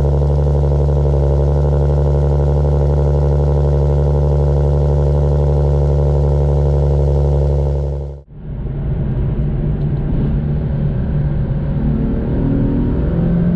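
Car engine and exhaust running at a steady, even drone for about eight seconds, cut off abruptly. A rougher exhaust note follows and starts to rise in pitch near the end as the engine revs up.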